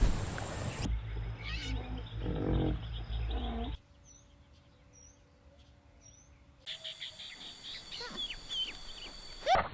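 Short clips of bird calls cut one after another. In a near-silent stretch in the middle come three short high chirps, then a louder run of quick falling chirps, ending in a loud rising call.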